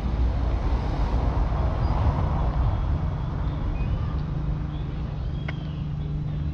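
Road traffic: a vehicle passes, its noise swelling and fading about two seconds in, over a steady low engine hum. A few short bird chirps sound above it.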